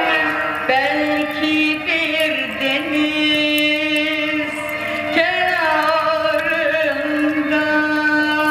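Turkish art music: a voice sings long held notes with ornamented bends between them.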